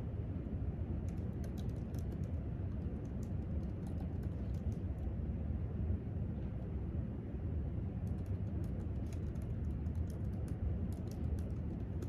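Typing on a laptop keyboard: quick light key clicks in two runs with a lull of several seconds between them, over a steady low background hum.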